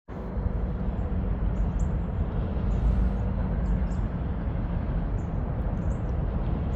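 Norfolk Southern diesel locomotives running with a steady low rumble. Birds chirp briefly several times over it.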